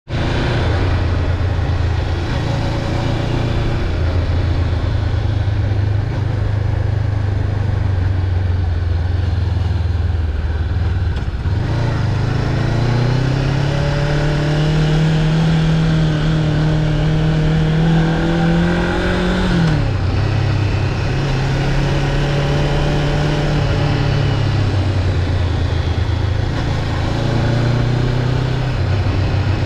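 Honda CB500X's parallel-twin engine running under way. The note holds low and steady at first. About twelve seconds in it climbs in pitch for several seconds, drops suddenly near twenty seconds (a gear change or closing the throttle), then settles into a steady note again.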